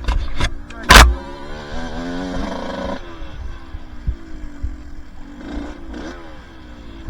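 Two-stroke dirt bike engine revving up and easing off as it rides over trail terrain, with three sharp knocks in the first second, the loudest about a second in.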